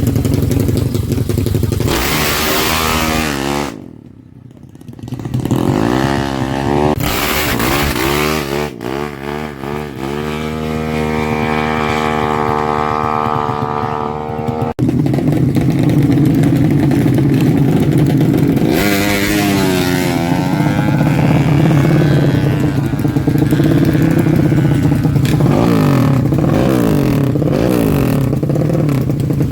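Honda Karisma single-cylinder motorcycle engine being revved during tuning: the revs rise and fall again and again, drop away briefly about four seconds in, and are held high for a few seconds in the middle before it settles into steady running with further short blips of the throttle.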